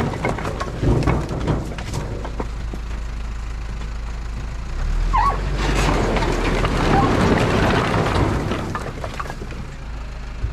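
A dump truck's diesel engine running steadily, with a few knocks of split firewood logs tumbling in the first two seconds.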